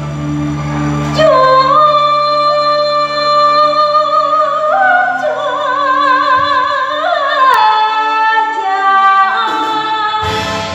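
A singer holds a long melismatic phrase of sustained, vibrato-laden notes that step up in pitch and then slide back down, over a low held accompaniment; the full band comes back in near the end.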